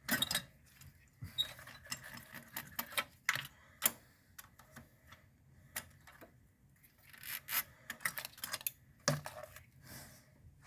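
Light metallic clicks, clinks and scrapes at irregular intervals, from hand tools and small fasteners being worked on an engine's fuel injection rail.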